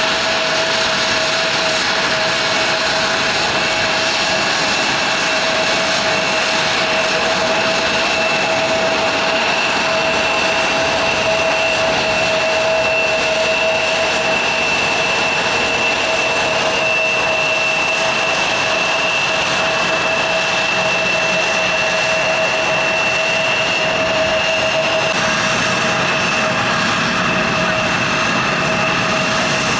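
Jet airliner engines running steadily at close range: a continuous rushing noise with a steady whine at two pitches.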